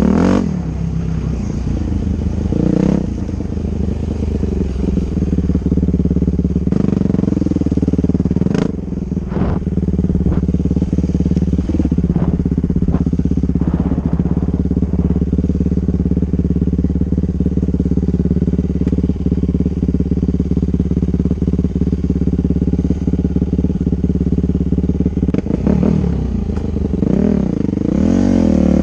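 Dirt bike engine running steadily at a held pitch, the revs rising and falling near the start and again near the end, with a few short knocks partway through.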